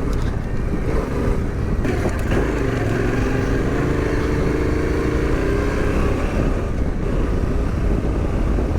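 Adventure motorcycle engine running steadily at low revs as the bike is ridden along a muddy off-road trail, with a constant low rumble.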